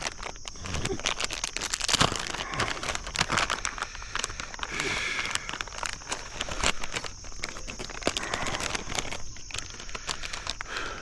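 A steady, high-pitched chorus of insects, likely crickets, with irregular rustling and crackling close to the microphone.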